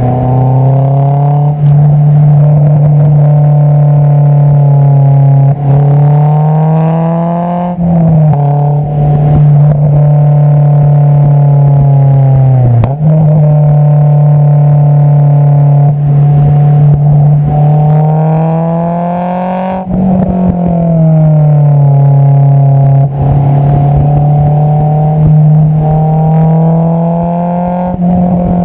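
Exhaust note of a Honda S2000's 2.2-litre four-cylinder through an Invidia Q300 exhaust, heard close at the tailpipe while driving. Its pitch climbs slowly under throttle, then drops or jumps at gear changes several times.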